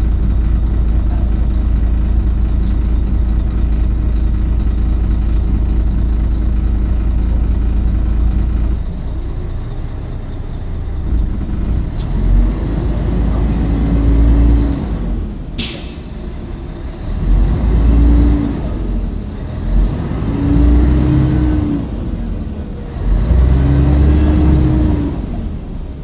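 Scania L113CRL bus's diesel engine running with a steady heavy drone, then from about nine seconds in going through several surges of revs whose pitch rises and falls, as when pulling away through the gears. A single sharp click comes near the middle.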